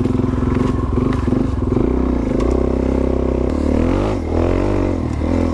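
Motorcycle engine running at low trail speed, its pitch rising and falling with on-and-off throttle about halfway through.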